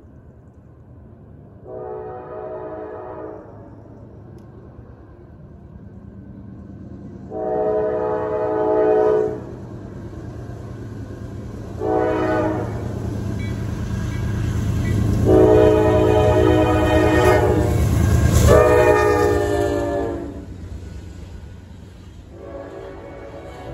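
Locomotive horn sounding the grade-crossing signal, long, long, short, long, over the rising rumble of an approaching train that is loudest as it passes near the end of the long final blast; another horn blast begins near the end.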